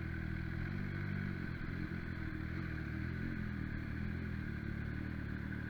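MV Agusta Brutale motorcycle engine running at a steady, nearly constant speed.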